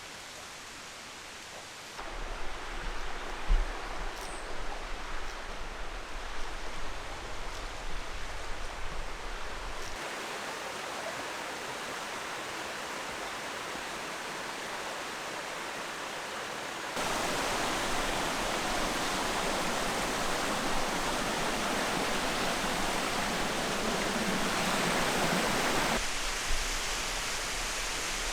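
Rushing water of a waterfall and mountain stream, a steady hiss that jumps in level at several cuts and is loudest in the second half. Low rumbling and a few knocks sit under it in the first part.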